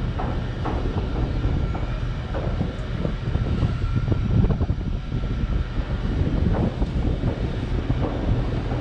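Gusty wind buffeting the microphone in a heavy, uneven low rumble, with a faint steady tone running underneath.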